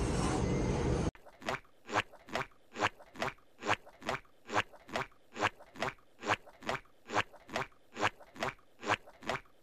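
Steady rhythmic crunching, about two crunches a second, like something hard and dry being chewed.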